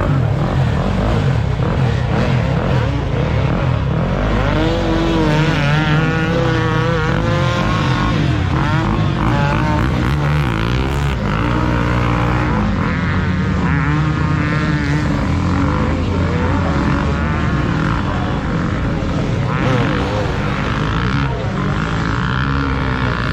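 Motocross dirt bike engines revving hard, their pitch rising and falling again and again as the bikes are throttled on and off.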